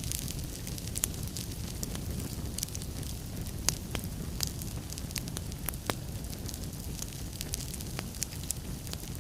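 Wood fire burning in a fireplace: a steady low rumble of flames with frequent sharp crackles and snaps at irregular intervals, a few louder pops among them.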